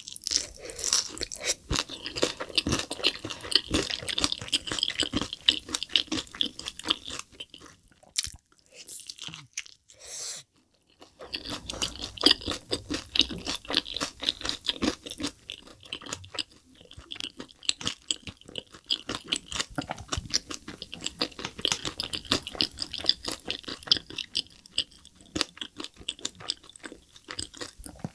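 Close-miked biting and chewing of spicy sauce-coated (yangnyeom) fried chicken drumsticks: dense crisp crunches of the fried coating mixed with wet chewing, with a brief pause about ten seconds in.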